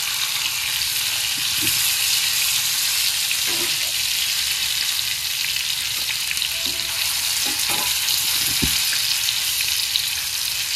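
Marinated chicken drumsticks sizzling in hot refined oil on a thick flat tawa, a steady frying hiss, with a few light clicks of a metal spatula against the pan.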